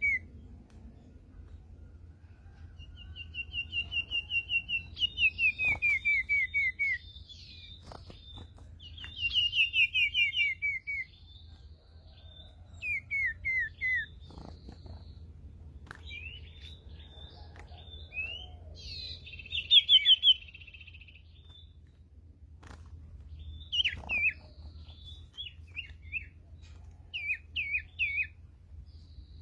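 Bird calls of the sirtu ekor hitam (black-tailed sirtu), the kind used to lure the species. They come as phrases of rapid repeated notes sliding down in pitch, each a second or two long, separated by short pauses, with quicker looping notes near the end.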